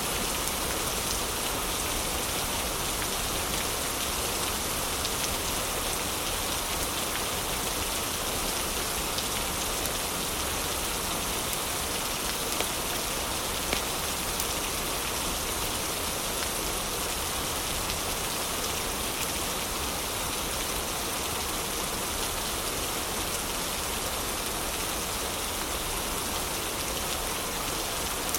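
Heavy rain falling steadily, an even hiss of drops with a few isolated ticks.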